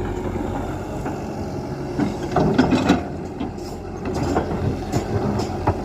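Tata Hitachi EX120 tracked excavator's diesel engine running steadily, with a series of knocks and clatter from the working machine, loudest about two and a half seconds in and again with sharp knocks near the end.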